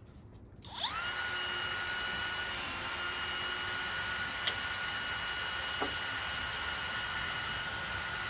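Power drill starting about a second in, its motor whine rising quickly and then holding at a steady speed as it drives a self-tapping roofing screw into wood.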